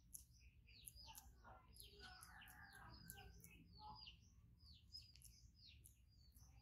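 Faint twittering of small birds: quick, short falling chirps, several a second, with a soft rustle about two seconds in.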